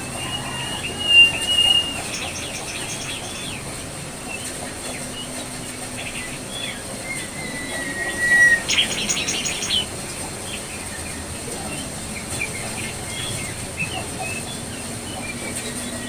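Jongkangan coklat singing: thin high whistles and a rapid chattering run, loudest about a second in and about halfway through, with a few scattered chirps after. A faint steady low hum runs underneath.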